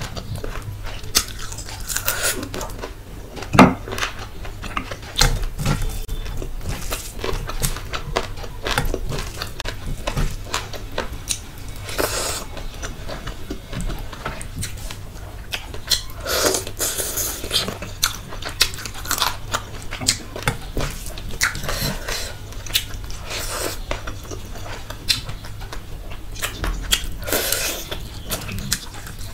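Close-miked eating sounds of a person eating rice, chicken and fish curry by hand: wet chewing, lip smacks and crunches, with a fast, irregular run of sharp clicks. The sharpest click comes about three and a half seconds in.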